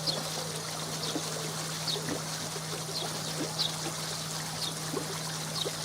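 Water running and trickling through a koi pond filter box, over a constant low hum. Short high chirps recur every half second to a second.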